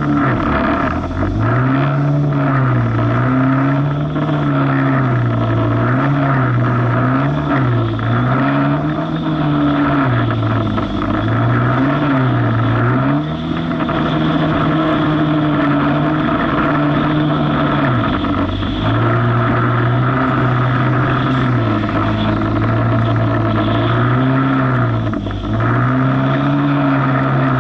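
Jet ski engine running hard, its pitch rising and falling over and over as the revs swing while it rides through rough, wavy water, with brief drops in revs a few times.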